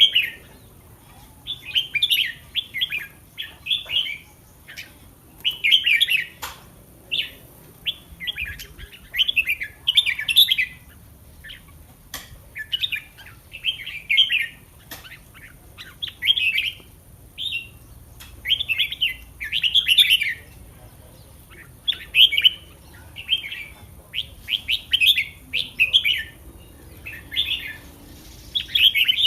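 Red-whiskered bulbul singing short, bright warbling phrases over and over, one every second or two, with a few sharp clicks between phrases.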